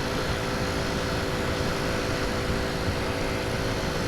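Honda C90 step-through's small four-stroke single-cylinder engine running steadily at cruising speed, with wind rushing over the microphone.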